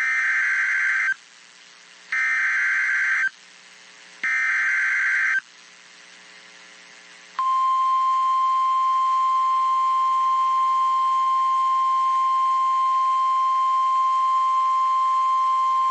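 NOAA Weather Radio emergency alert: three identical warbling data bursts of the SAME (Specific Area Message Encoding) header, each about a second long, encode the Severe Thunderstorm Warning and the counties it covers. After a pause, the steady 1050 Hz Warning Alarm Tone begins and holds, the tone that sets off weather radio receivers' alarms.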